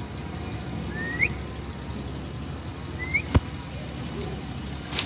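Two short rising bird chirps about two seconds apart over a low steady rumble, with a sharp click just after the second chirp.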